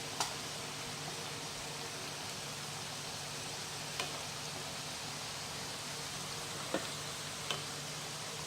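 Pieces of breadfruit frying in hot oil: a steady sizzle with a few sharp pops, one near the start, one about halfway and two close together near the end.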